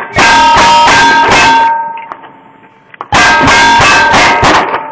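Two quick strings of gunshots from cowboy action firearms, each shot followed by steel targets ringing at fixed pitches; the first string starts right away, the second about three seconds in.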